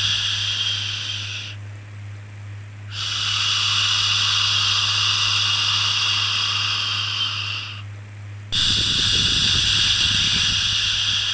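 Long drawn-out "shhh" shushing sounds for soothing a baby, each lasting several seconds with short pauses between: one fades out about a second and a half in, the next runs for about five seconds, and a third starts sharply about eight and a half seconds in. A steady low hum lies underneath.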